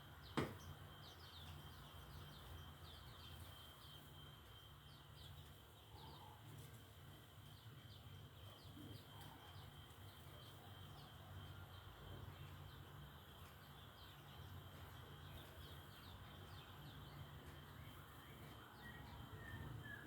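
Small aviary birds chirping faintly: many short, quick chirps that slide downward, scattered throughout. One sharp click about half a second in is the loudest sound.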